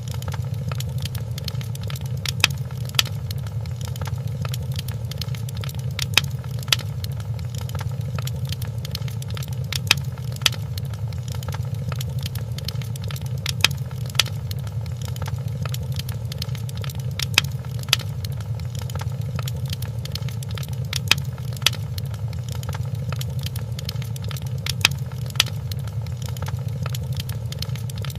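Wood fire crackling in a fireplace: a steady low rumble with many small snaps and pops, and a pair of louder pops about every four seconds.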